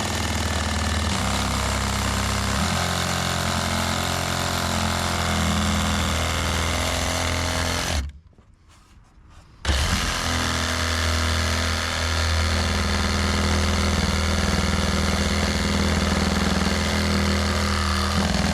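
Reciprocating saw running steadily as it cuts a plunge cut through a dry wooden deck board. It stops abruptly about eight seconds in and starts again under two seconds later.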